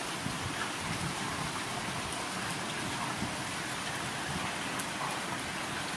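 Steady heavy rain falling on a surface, a dense even hiss with scattered small drop ticks.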